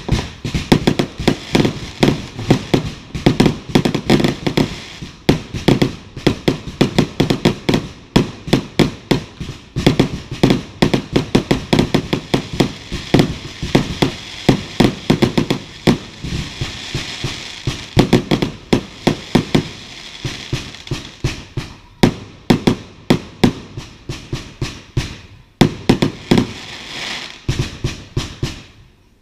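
Fireworks display going off: rapid, nearly continuous volleys of sharp bangs, several a second, with brief lulls near the end.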